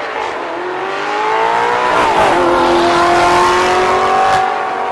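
A car engine accelerating hard with the throttle wide open. Its pitch climbs, drops sharply at an upshift about two seconds in, then climbs again before easing off near the end.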